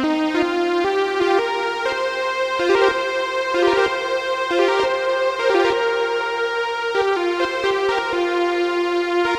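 IK Multimedia Uno Synth PRO analog synthesizer playing a factory preset: a bright, keyboard-like melodic line of notes that step in pitch roughly once or twice a second.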